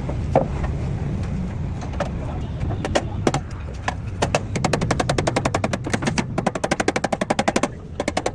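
A fast, even run of sharp taps, about ten a second, lasting about three and a half seconds, with a few scattered knocks before it, over a steady low rumble.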